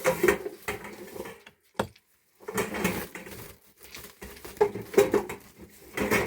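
Dishes and metal utensils clattering and knocking irregularly, with a short break about two seconds in.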